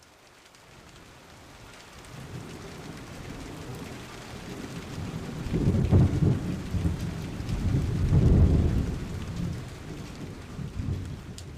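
Steady rain hiss with rolling thunder, the rumbles swelling about six and eight and a half seconds in, and again more weakly near the end, before the sound fades out.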